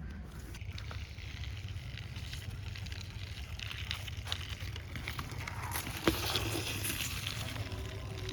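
Faint rustling and light clicks of a cheap plastic toy racing car being handled, over a steady low rumble, with one sharper click about six seconds in.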